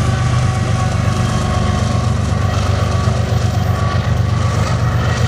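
Diesel locomotive engine running as the rear locomotive of a freight train passes, a loud steady low drone.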